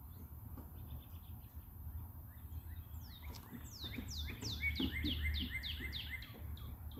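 A songbird singing a fast run of about a dozen clear whistled notes, each sliding down in pitch, starting about three seconds in, over a low steady background rumble.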